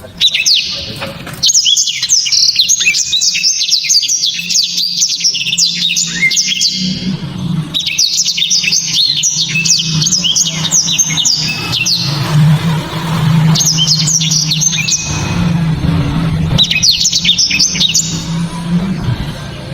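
Blackthroat (black-throated canary) singing a loud, fast twittering song in several long bursts with short pauses between them, over a steady low hum.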